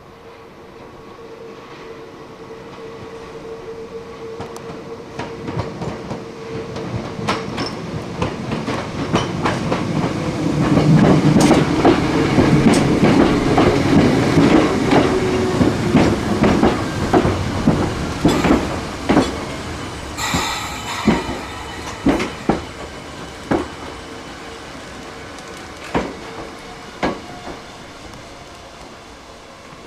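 Hakone Tozan Railway three-car electric train passing: its running noise builds to a peak about halfway through, then wheel clacks over the rail joints thin out as it draws away. A brief high screech comes about two-thirds in.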